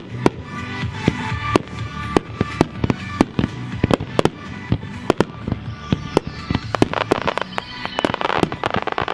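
Consumer fireworks going off in rapid succession: sharp bangs a few times a second at uneven intervals, with a denser hiss building near the end.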